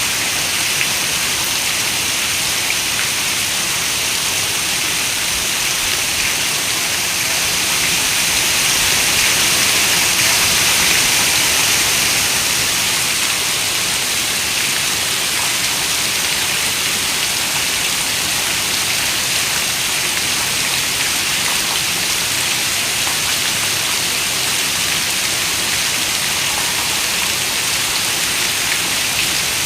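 Heavy rain falling on a window: a dense, steady hiss of raindrops that swells slightly about ten seconds in.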